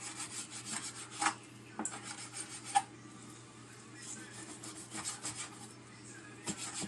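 Kitchen knife slicing through raw meat on a cutting board in repeated, irregular scraping strokes, with a few sharper clicks of the blade against the board.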